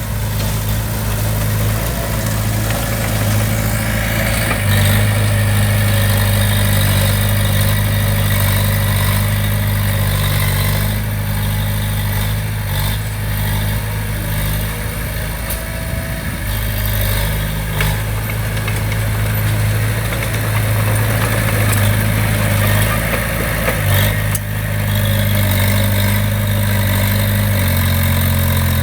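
Diesel engine of a heavy earthmoving machine running with a steady low drone. Its pitch steps up and down every few seconds as the load or throttle changes, and a couple of sharp metallic knocks come through in the second half.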